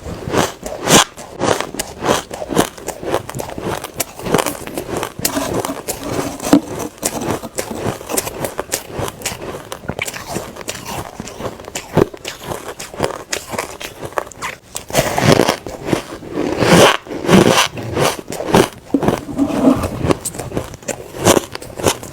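Close-up biting and chewing of refrozen soft ice: dense, gritty, sandy crunching in quick irregular bites, louder for a few seconds past the middle.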